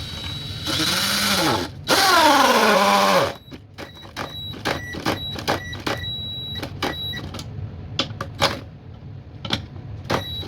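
Cordless drill run twice in short bursts of about a second each, its motor pitch dropping as it slows, while it drills a hole that does not go all the way through. After that come scattered clicks and knocks.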